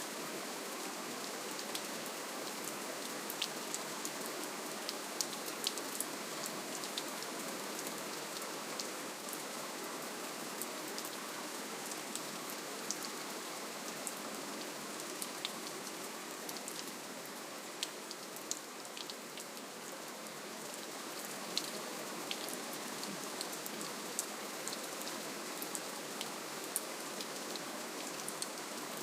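Steady gentle rainfall, an even hiss with many scattered drops tapping sharply on a surface.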